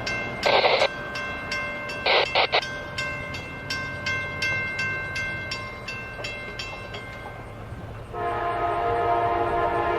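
Diesel locomotive air horn sounding: a short blast about half a second in, two quick short blasts around two seconds, then a long held chord from about eight seconds, typical of a train sounding for a grade crossing. A bell rings rapidly and steadily in between.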